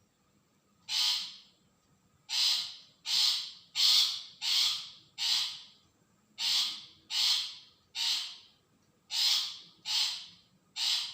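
Long-tailed shrike giving a series of harsh, rasping calls, each about half a second long. There are twelve in all: one alone, then a quick run of five, then two groups of three.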